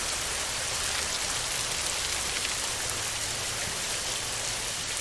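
Heavy rain falling on a tin roof: a steady, dense hiss with faint scattered drop ticks.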